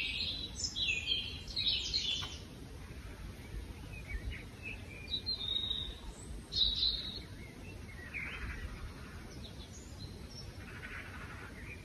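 Birds chirping on and off over a steady low background rumble; the chirps are thickest in the first two seconds and again around six to seven seconds in.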